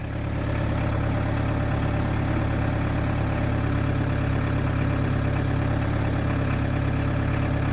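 2003 New Holland TC40D compact diesel tractor engine running steadily, coming up in level in the first half second as the loader arms are worked. It runs evenly, with no odd noises.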